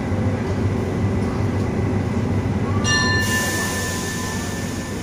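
Diesel-hauled passenger train pulling out, its coaches rolling past with a steady low rumble. About three seconds in comes a brief high-pitched metallic squeal, whose tone lingers thinly for a couple of seconds as the train moves off.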